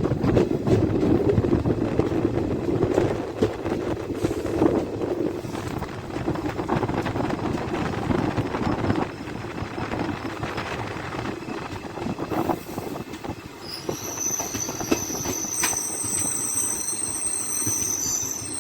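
DEMU passenger train rolling with a rumble and clatter of wheels that eases as it slows into a station. A high, steady squeal sets in during the last few seconds as it brakes.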